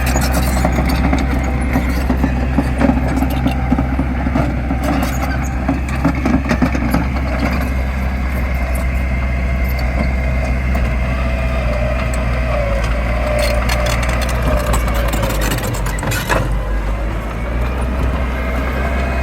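Heavy diesel earthmoving machinery running steadily under load, with repeated metallic clanks and rattles over the engine drone.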